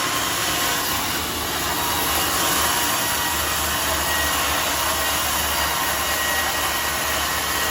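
Homemade sawmill running, a steady loud mix of saw and motor noise.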